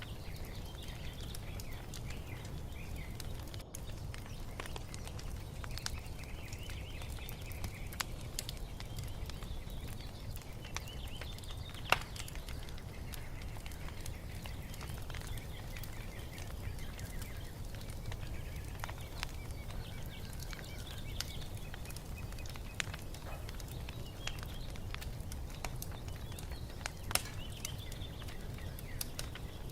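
Wood fire crackling and popping over a steady low rumble, with one sharp pop about twelve seconds in and another near the end. Birds chirp faintly behind it.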